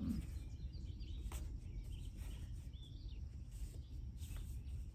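Faint bird chirps over a steady low background rumble, with a few light clicks.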